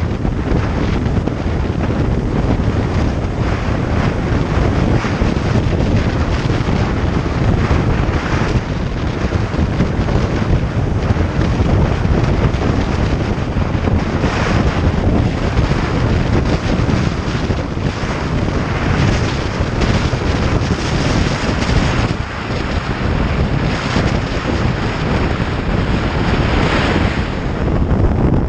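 Wind buffeting the microphone of a moving motorcycle, loud and steady, with the bike's engine and road noise mixed in beneath.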